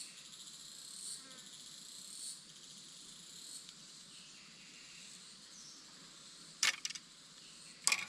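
Jungle insects, crickets or similar, buzzing steadily in a high chorus that swells about once a second. Two short sharp clicks come near the end and are louder than the insects.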